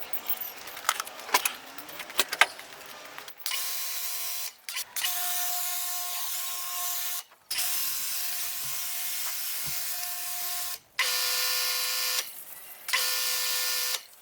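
Several clicks and knocks, then a power tool running with a steady whine and hiss in several short stretches that start and stop abruptly.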